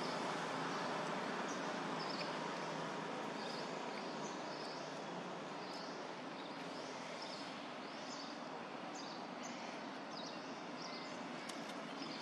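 Outdoor ambience: a steady background hiss with a bird calling over it, a short chirp repeated about once a second.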